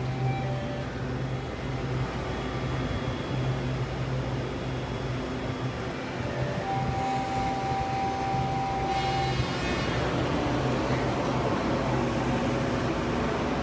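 Taiwan Railways local electric train at a station platform: a steady machinery hum throughout, with a single steady tone lasting a couple of seconds in the middle, then a high-pitched whine of several tones coming in from about two-thirds of the way through.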